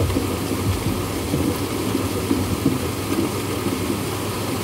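Steady noise of heavy thunderstorm rain, with a low, constant hum underneath.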